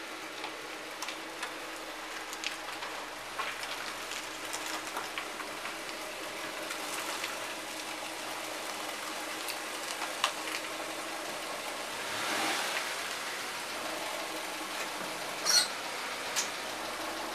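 Subaru Forester SH's engine idling: a steady low hum under a hiss, with scattered light ticks and a sharper clatter about fifteen seconds in.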